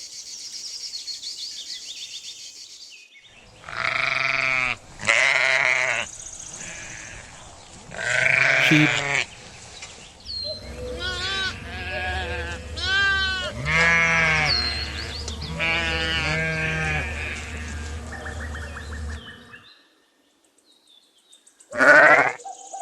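Sheep bleating, a long run of separate wavering calls, with a steady low rumble under the later ones and one more loud bleat near the end. It opens with a few seconds of a high, thin insect-like hiss.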